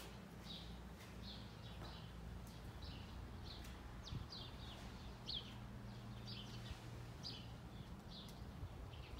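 Small birds chirping, a long run of short, high, falling notes about two a second, over a faint low steady hum.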